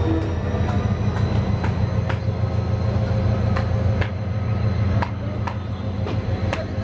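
Bangladesh Railway passenger train running on the track: a steady low rumble with a series of sharp clicks from the wheels over rail joints.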